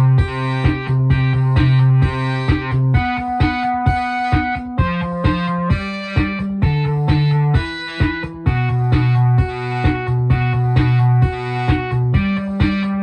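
Korg MS-20 analog synthesizer playing a buzzy, distorted sequence: a fast repeating note pattern over a low bass note that shifts pitch every second or two.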